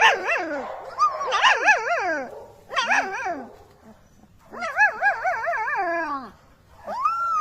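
A dog whining and howling in several wavering bouts, with a long, held howl near the end.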